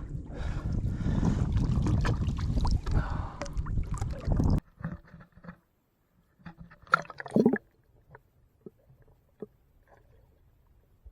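Wind buffeting the microphone and water sloshing around a small boat, cutting off suddenly a little before halfway; after that only a few faint knocks and a short clatter about seven seconds in.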